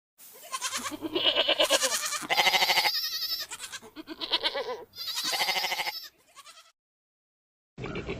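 Goat bleating: a run of about five wavering calls, one after another. After a short pause, another call from a different recording begins near the end.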